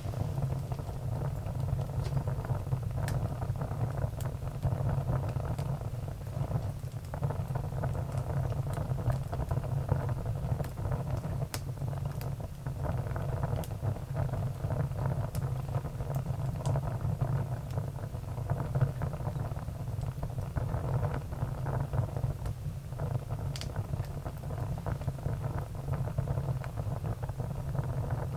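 Firewood burning: a steady low rumble from the fire, with a few sharp crackles and pops scattered throughout.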